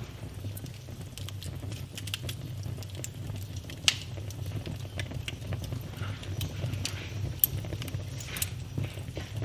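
Wood fire burning in a fireplace: a low steady rumble of flames under irregular crackles and sharp pops, two louder pops about four and seven and a half seconds in.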